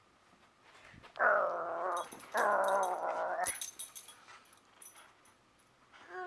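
A corgi puppy gives two drawn-out, wavering growly whines in play. The first comes about a second in, the second just after it.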